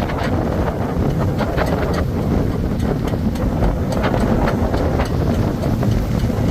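Strong tropical-storm wind buffeting the microphone in a steady low rumble, with frequent short sharp ticks on top.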